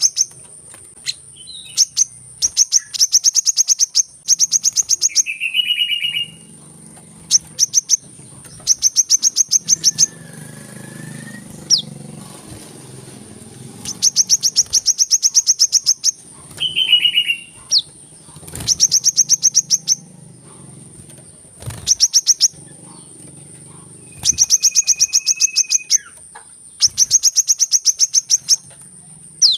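Brown-throated sunbird ('kolibri ninja') calls: repeated bursts of rapid, high chip notes, each about a second or two long, with a few short lower whistled notes in between, over a steady high whine.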